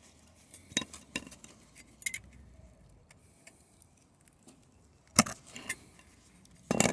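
Light metallic clinks and taps of a thin sheet-steel patch panel being shifted and trial-fitted against car bodywork, with two louder knocks about five seconds in and near the end.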